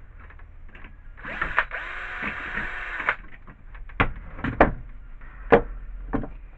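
Hand work on a plastic snow shovel repair: about two seconds of scraping and rubbing, then several sharp knocks and clicks of tools and parts being handled.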